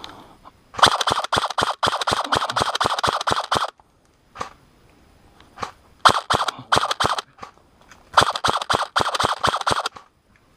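Airsoft guns firing rapid strings of shots, about seven a second: a long string of about three seconds, two single shots, then two more strings of a second or two each.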